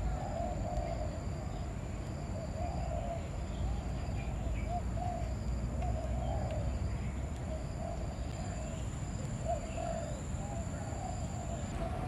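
Soft, low bird calls like cooing, repeating every second or so, over a steady high-pitched hum.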